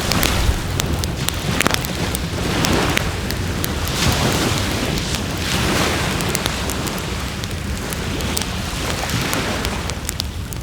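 Wood fire crackling in a fire pit, with many sharp pops and ticks, over the rush of waves on the shore swelling and easing every few seconds.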